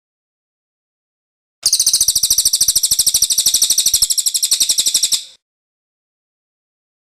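Cililin bird's rolling song (ngerol): one rapid, high-pitched trill of evenly repeated notes, about three and a half seconds long, starting after a second and a half of silence and stopping abruptly.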